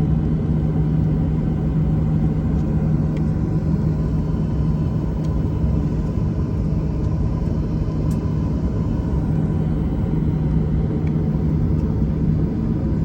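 Steady engine rumble with a constant low hum and a fainter higher whine, unchanging, with a few faint ticks.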